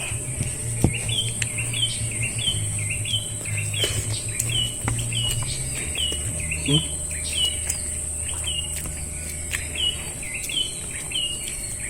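A bird chirping over and over, one short call about every two-thirds of a second, over a steady high-pitched insect drone, with a few faint clicks.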